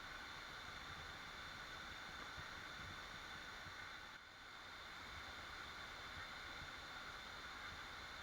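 Steady rushing water of a waterfall, with a brief dip in level about four seconds in.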